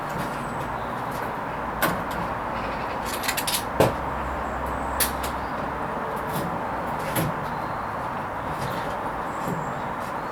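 Hoover Vision HVP16 washing machine running its Silks 30 hand-wash programme: a steady running noise with scattered clicks and knocks from the turning drum. The loudest knock comes about four seconds in, with a low hum rising from the motor just after it.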